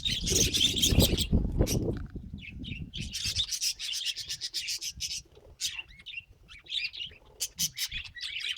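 Pet budgerigars chirping and chattering in quick, broken bursts. A rubbing, scraping noise runs under them for the first two seconds.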